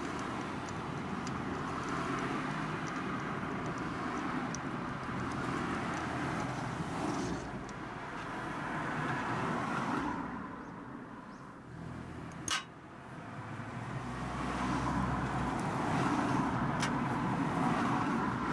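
Motor vehicle noise that swells and eases a few times, with one sharp click about twelve seconds in.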